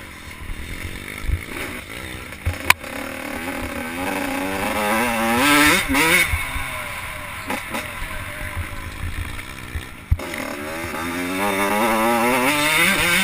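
Small two-stroke 85cc motocross bikes revving up and down on the track, the engine pitch rising and falling again and again, getting louder toward the end. There is a sharp knock about three seconds in and another about ten seconds in.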